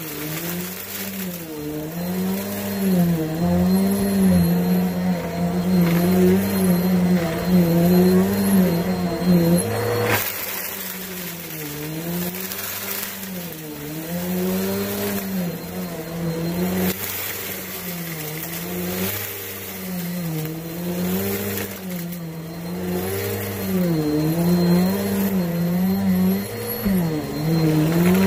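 Shark vacuum cleaner running steadily, its motor pitch dipping and recovering about every one and a half to two seconds as the load changes with each stroke of the nozzle over the carpet. A short sharp click about ten seconds in.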